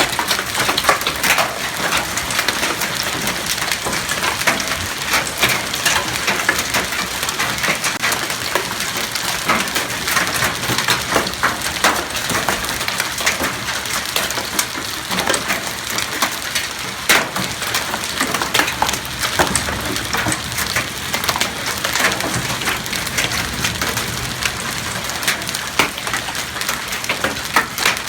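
Hail falling hard: a dense, continuous clatter of many small hailstones striking hard surfaces, with scattered louder single cracks.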